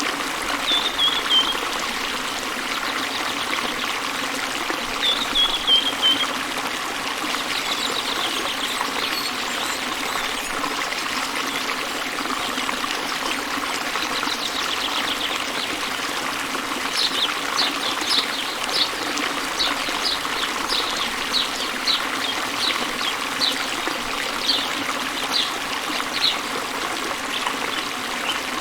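Steady noise of a waterfall, with a bird chirping over it: two short falling trills in the first few seconds, then, from past the middle, a run of short sharp chirps about one and a half a second.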